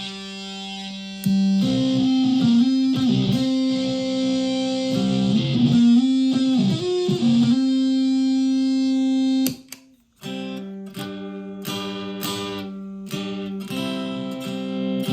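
Solid-body electric ukulele played through a Keeley Rotten Apple clone fuzz pedal, a Big Muff-style fuzz built on hex inverter chips. It plays long, sustained fuzzed notes, cuts off briefly about ten seconds in, then resumes.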